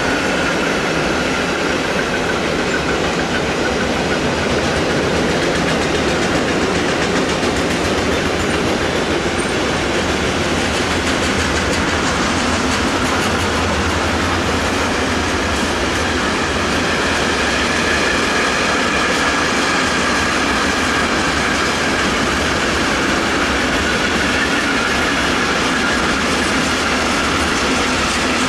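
Freight train of covered sliding-wall wagons and flat wagons rolling steadily past, a continuous even noise of wheels on rails and rattling wagons. A faint high-pitched tone comes and goes over it.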